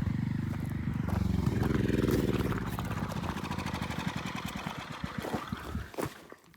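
Troy-Bilt Horse rear-tine rototiller's engine running, rising in pitch once and falling back, then firing ever more slowly and dying about six seconds in: the engine has run out of gas.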